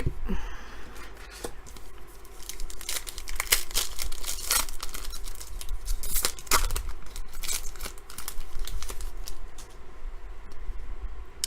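A foil trading-card pack torn open and handled: crinkling and tearing of the wrapper, with many sharp clicks and snaps as the cards are slid out and shuffled.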